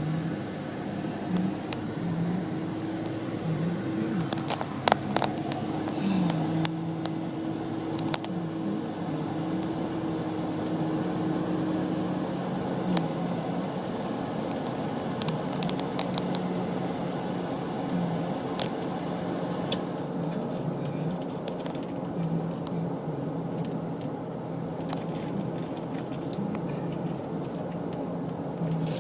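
Car running on the road, heard from inside the cabin: a steady low engine hum that dips in pitch now and then, with scattered clicks and rattles.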